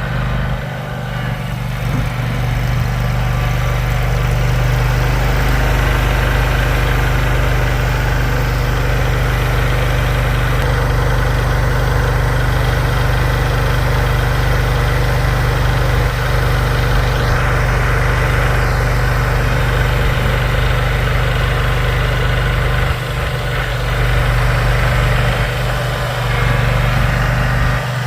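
A vehicle engine running steadily with a strong, even low hum, as snow is cleared.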